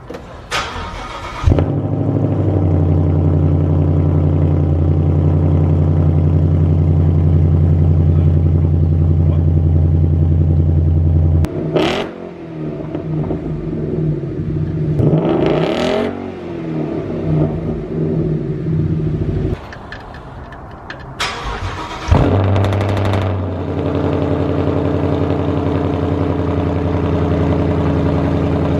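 Exhaust of a 2015 Ford Mustang with its resonators deleted, straight-piped up to the catalytic converters, very loud. It starts up about a second and a half in and runs at a steady idle, then is revved up and down in the middle. After a loud burst it settles back to a steady idle.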